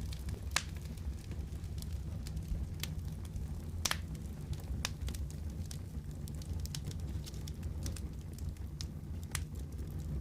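Wood fire crackling in a fireplace: a steady low rumble of flames with scattered sharp pops and snaps, the loudest about half a second in and near four seconds.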